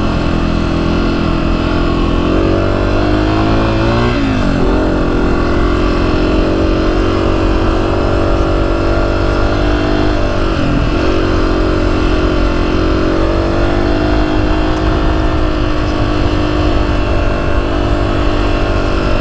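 2024 Honda CRF250F's single-cylinder four-stroke engine running steadily under way. Its pitch dips briefly and climbs back about four seconds in and again near the middle, as the throttle is rolled off and back on.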